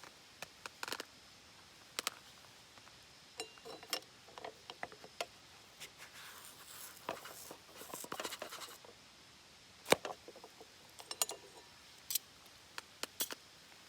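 Irregular small clicks, taps and rustles of objects being handled, with one sharper click about ten seconds in.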